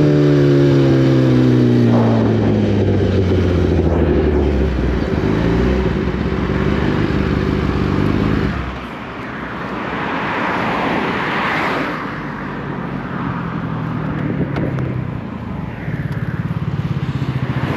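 Litre-class inline-four sportbike engine slowing, its pitch falling, then running low and steady. About eight and a half seconds in it drops off suddenly, a rush of noise swells, and the engine settles to a steady idle.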